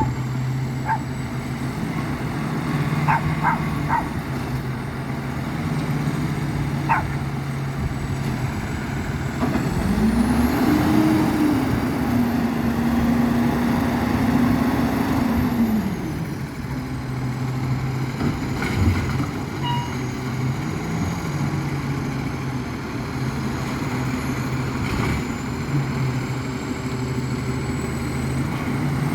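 Garbage truck's diesel engine running steadily, speeding up for about six seconds midway before settling back to idle. A dog barks a few times in the first several seconds.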